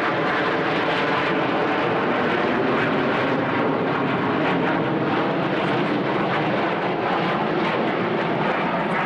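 Military aircraft engines running loud and steady, a dense drone with no pause.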